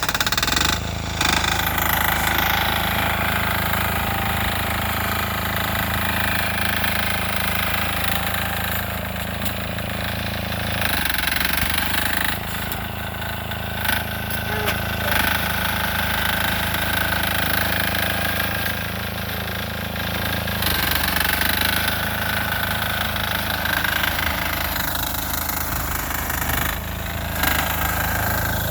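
6 hp single-cylinder air-cooled diesel engine of a Sears Suburban garden tractor, running steadily while clearing snow, its speed shifting a few times.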